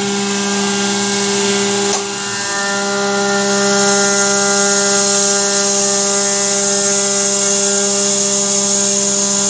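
Carvera Air desktop CNC mill cutting: a steady spindle whine with the hiss of the air-assist blast over it. A brief click and short dip in level about two seconds in, then the steady run resumes.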